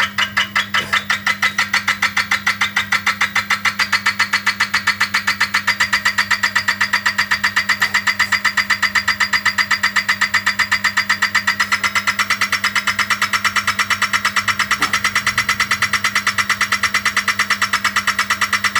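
Electric easy-bike's motor and gear set running, giving a rapid, even clacking over a steady hum: the noise of a faulty motor gear set.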